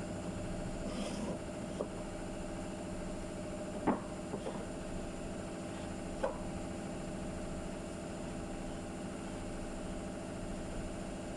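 A steady mechanical hum from a running motor, with a few short knocks and taps over it.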